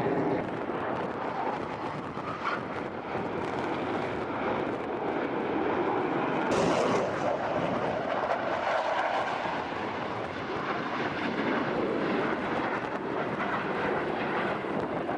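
Aircraft engine noise: a steady, dense rushing sound that swells somewhat around the middle.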